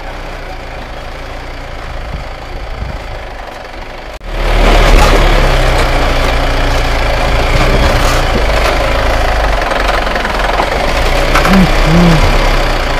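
A motor vehicle's engine running with a steady low rumble. About four seconds in, the sound abruptly becomes much louder and fuller and stays that way.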